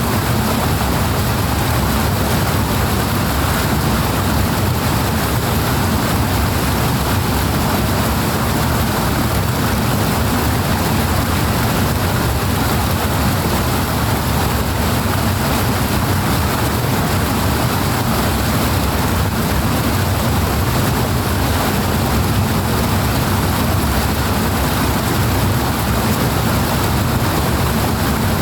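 Heavy rushing water, a steady unbroken flow that is strongest in the low and middle range and keeps the same level throughout.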